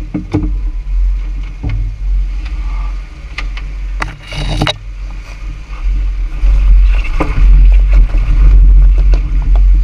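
Jeep Wrangler Rubicon driving a rough dirt trail: a steady low rumble with scattered knocks and rattles, and a denser clatter about four seconds in. The rumble grows louder in the second half.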